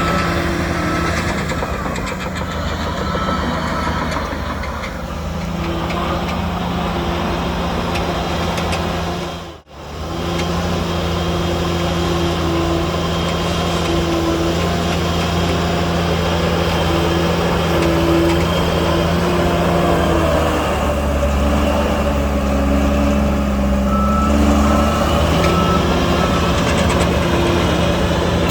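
Heavy diesel engines of a bulldozer and a dump truck running under load, the engine note shifting in pitch as they work. The sound drops out for an instant about ten seconds in. Short repeated beeps like a reversing alarm come near the start and again near the end.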